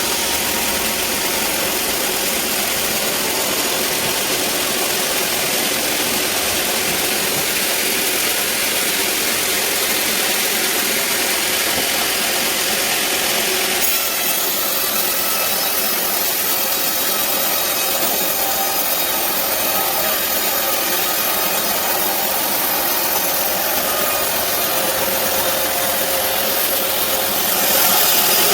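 Sawmill band saw cutting lengthwise through a teak log: a steady, continuous sawing noise that changes character about halfway through and grows louder near the end.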